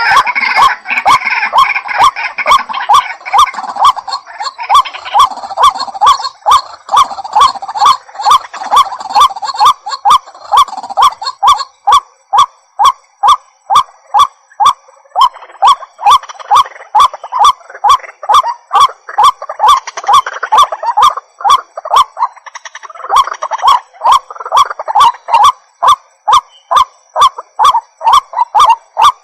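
White-breasted waterhen calling: a long, even run of short repeated call notes, about two to three a second, without a break.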